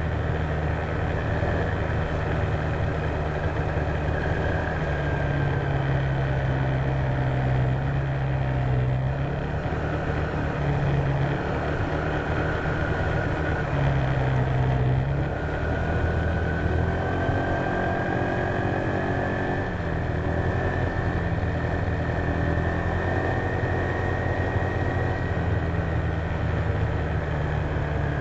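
Honda PCX150 scooter's single-cylinder engine running under way, its note shifting up and down with the throttle, with a higher whine that rises slowly about halfway through.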